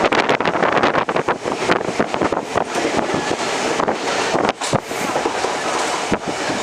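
Wind buffeting the microphone over the running noise of a passenger train moving at speed, with frequent short knocks and rattles.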